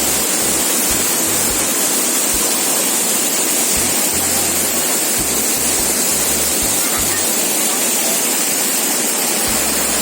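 Small stream rushing steadily, a loud even hiss of running water.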